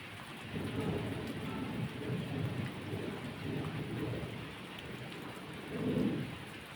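Steady rain with low rolling thunder, the rumble swelling about half a second in and rising again to its loudest near the end.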